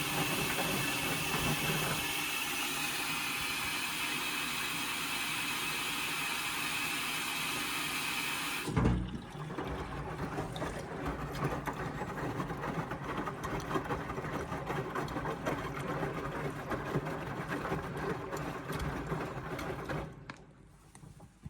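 Indesit washing machine running mid-cycle: a steady hissing whir for about nine seconds, cut off by a thump, then a lower rattling, clicking churn that fades away near the end.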